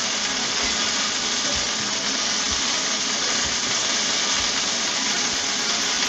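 Pork cubes searing in hot olive oil in a cast iron skillet: a steady sizzle, with a few soft low knocks as the pieces are turned with metal tongs.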